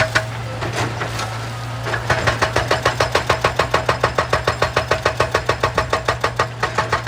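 Excavator's hydraulic breaker hammering rock at about six blows a second, starting about two seconds in, over the steady hum of the diesel engine. Before that there are only a few scattered knocks.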